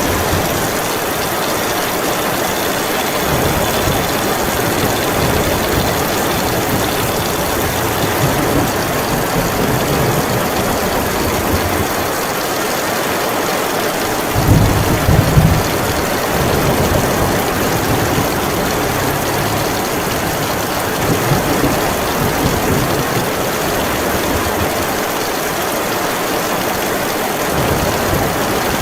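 Heavy rain pouring steadily in a thunderstorm, with low rumbling that swells and fades throughout and a louder rumble of thunder about halfway through.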